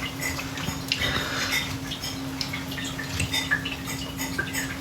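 Light, scattered clicks and taps of a fork working in a salad bowl while eating, over a steady low hum.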